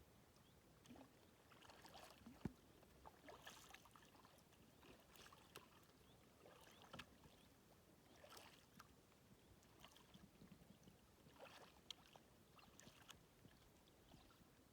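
Faint splashes of a kayak paddle dipping into the water, about one stroke every second and a half.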